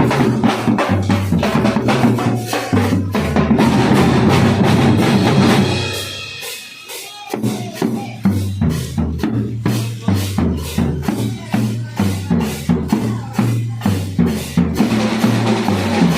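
Marching drum line playing: snare and bass drums beating a fast, steady rhythm. The playing thins out briefly about six seconds in, then the full beat comes back in.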